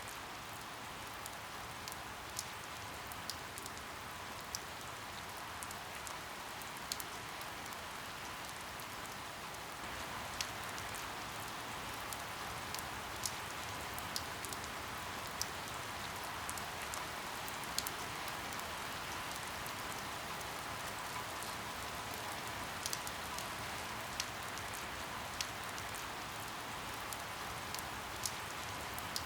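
Steady rain, an even hiss with sharp ticks of single drops hitting close by every second or so; it grows slightly heavier about ten seconds in.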